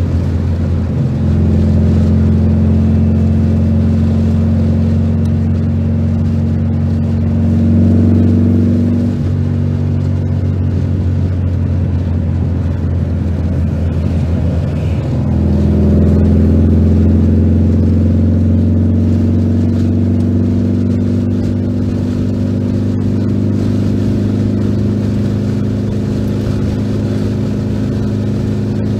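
Air-cooled flat-four engine of a 1973 VW 1302 Super Beetle on dual Weber carburettors, heard from inside the cabin while driving at freeway speed. The engine note climbs, drops about nine seconds in, then grows louder and rises again around fifteen seconds in before settling into a steady drone.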